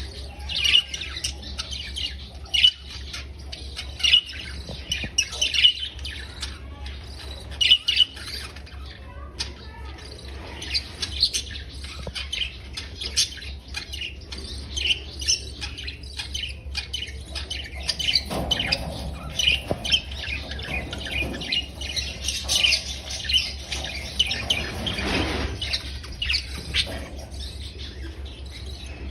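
Budgerigars chirping, chattering and squawking in quick, continuous bursts, with a few louder, harsher calls in the second half.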